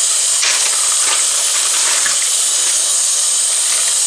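Kitchen tap running in a steady, loud hiss of water into the sink as raw chicken pieces are rinsed under it.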